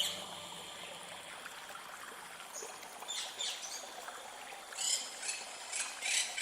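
Water trickling and splashing, with a few short splashy bursts in the second half.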